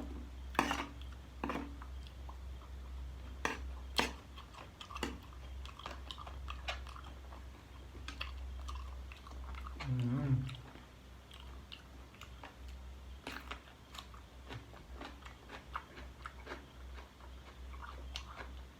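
A person chewing and biting chicken feet from a spicy chicken-feet salad close to the microphone: irregular wet crunches and clicks from gnawing skin and cartilage off the bones.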